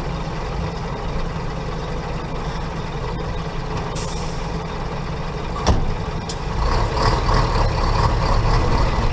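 Scania R420 tipper truck's diesel engine idling, with a short hiss of released air about four seconds in and a sharp knock a little later. The engine then revs up and runs louder.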